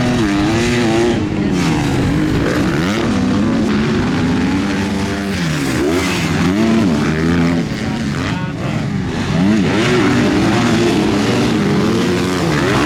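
Several MX2 motocross bikes racing, their engines revving up and down through gear changes and corners, the pitches of more than one bike overlapping.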